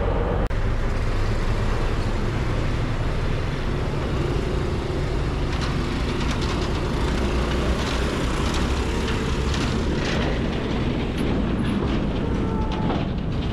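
Diesel train running slowly, with a steady low engine rumble. From about five seconds in, clicks and clatter come on top, typical of the wheels and carriages rolling along the track.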